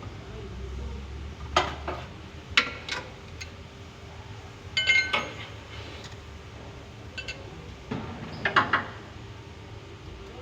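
Metal objects clinking and clattering in several separate knocks, one cluster about halfway through ringing briefly.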